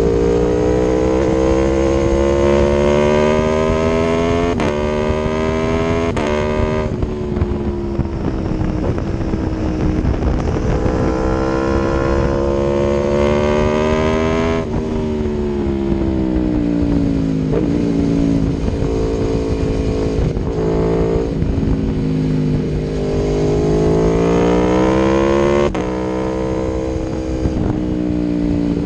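Aprilia Tuono V4 1100's V4 engine through an Akrapovic exhaust, pulling up through the gears: the pitch climbs and drops sharply at each upshift, several times in the first half. About halfway through it winds down slowly, then climbs again before another shift near the end.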